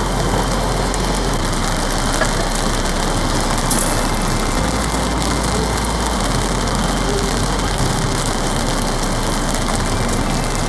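Heavy rain beating hard on a polycotton (TC) tarp, a steady, dense patter.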